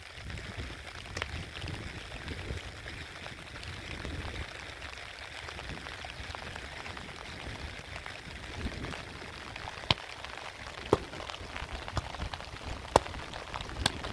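Steady rain hissing, with a few sharp drop taps in the second half.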